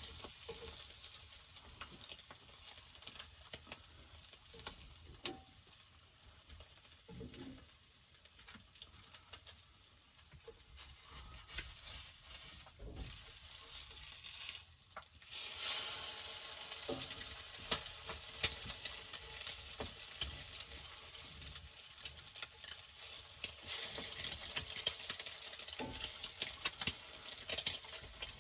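Food frying in a hot pan on a camp stove, a steady sizzle with crackles and pops that turns louder and stronger about halfway through. The pan is hot enough that the cooking is starting to smoke.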